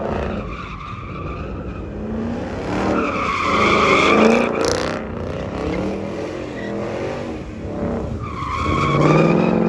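A 5.0 V8 car spinning its tyres, squealing and skidding over the engine's running. The squeal swells about three seconds in and again near the end.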